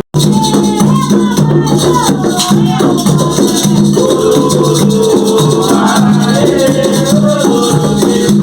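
Devotional chanting to the orixás: voices singing a melody over a steadily shaken rattle. There is a brief dropout right at the start.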